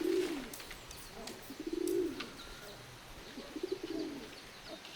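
Dove cooing: three low, arching coos about two seconds apart, with faint high chirps of small birds between them.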